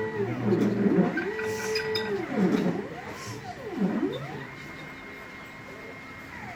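Stepper motors of a CNC laser cutter's gantry whining as the axes move. With each move the pitch rises, holds and falls: several short moves in a row, then one longer, quieter run.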